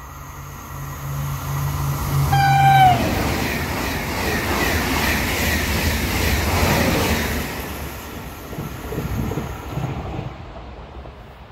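TGV 2N2 double-deck high-speed train running through the station. About two seconds in, a short horn blast sounds and drops in pitch. The loud rush of the passing train and its wheels on the rails follows, fading away in the last couple of seconds.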